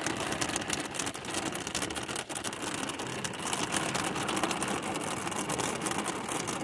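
Hard rain drumming on the roof and deck of a boat's cuddy cabin, heard from inside the cabin: a dense, steady patter of countless drop impacts.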